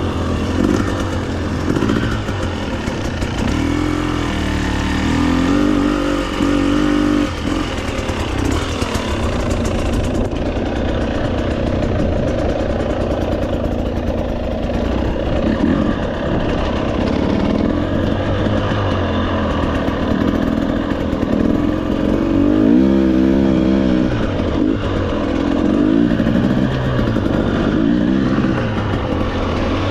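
Off-road motorcycle engine running as it is ridden along a dirt trail, its pitch rising and falling again and again as the throttle is opened and closed.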